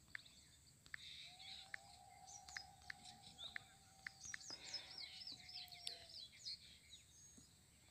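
Faint bird chirping: short, high, falling notes in quick runs, busiest a little past the middle. A faint steady tone sounds underneath for about five seconds.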